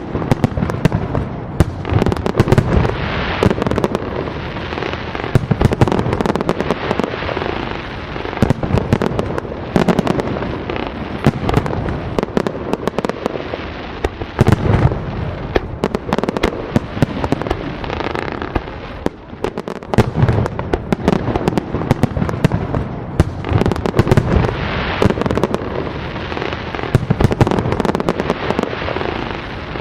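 Fireworks display: a continuous barrage of shell bursts, bangs and crackling, many cracks a second over a steady low rumble, with no pause.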